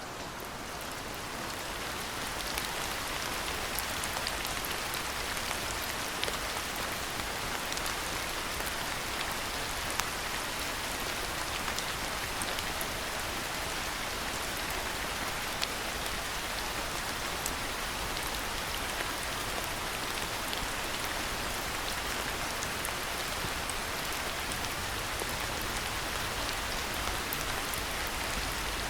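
Steady rainfall: an even hiss with scattered sharp drop ticks, fading in over the first couple of seconds.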